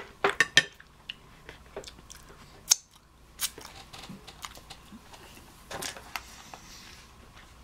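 A person chewing a mouthful of ravioli with her mouth closed: scattered sharp, wet mouth clicks and smacks, a few louder ones near the start.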